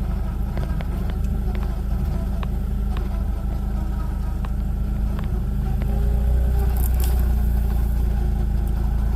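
4x4 vehicle's engine running with a steady low rumble that grows somewhat louder about six seconds in, with scattered light knocks and rattles over it.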